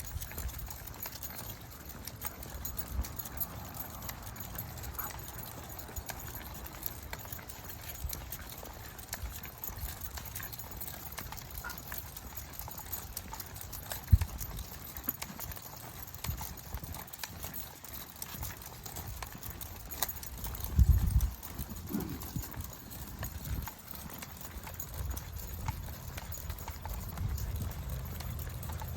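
Footsteps on a dirt trail at a steady walking pace, with the low rumble of movement against the microphone. There is one sharp knock about fourteen seconds in and a short run of louder thumps around twenty-one seconds.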